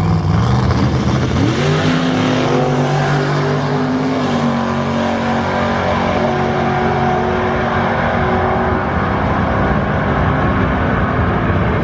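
Car engine accelerating hard: its pitch climbs steeply about a second and a half in, then holds fairly steady over a rough low rumble.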